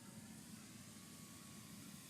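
Faint, thin whine of a distant electric-powered Multiplex FunCub RC plane's motor, drifting slightly in pitch, over low steady background noise.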